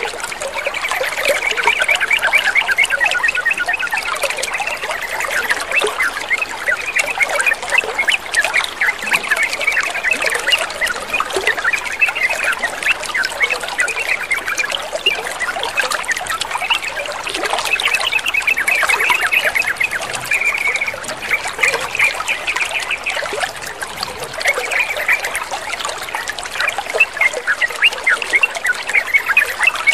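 Yellow-vented bulbuls chattering in a dense stream of short, quick notes over steady trickling water.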